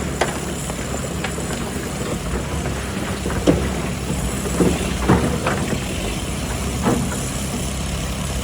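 Excavator's diesel engine running steadily at a low rumble, with half a dozen short knocks and clunks scattered through it.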